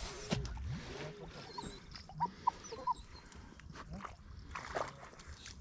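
A small dog whining in several short rising-and-falling cries.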